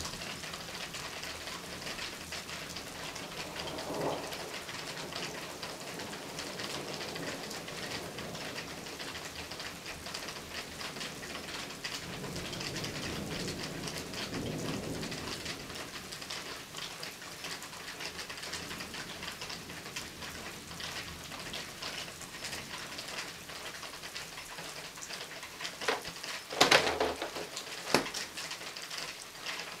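Steady pattering of rain during a thunderstorm, with low rumbles of distant thunder swelling about four seconds in and again around the middle. Near the end come two sharp, loud knocks about a second apart.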